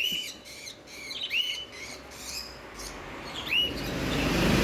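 African lovebirds chirping: a quick series of short, high calls, thinning out after about two seconds. A steady rushing noise rises near the end.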